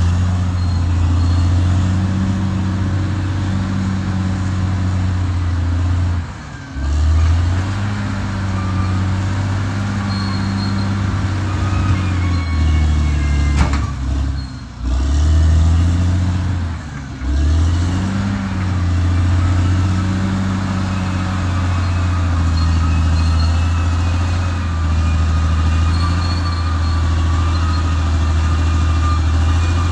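Caterpillar D6R XL bulldozer's diesel engine running steadily with a low drone. It dips briefly about three times: once about six seconds in, and twice between about fourteen and seventeen seconds in.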